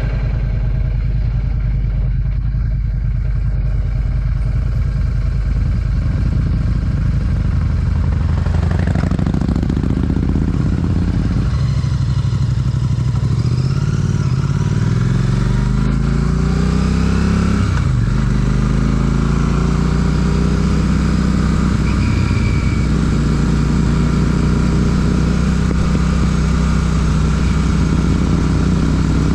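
Royal Enfield Classic 650's parallel-twin engine through an aftermarket Ngage exhaust. It runs steadily for about eight seconds, then pulls away, rising in pitch through the gears with a drop at each upshift about 11 and 17 seconds in, then climbs slowly as the bike gathers speed.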